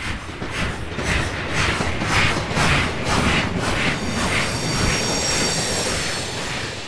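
Passenger train running on the rails, a rhythmic pulsing rumble about twice a second. From about four seconds in, the wheels add a high steady squeal.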